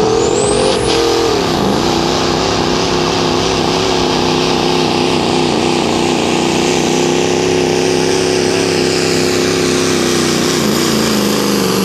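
Pro street diesel pickup's Duramax V8 turbo-diesel at full throttle pulling the sled, with a high whistle rising at the start. The engine pitch dips briefly about a second and a half in, then holds steady with a slight waver, and drops away near the end as the run finishes.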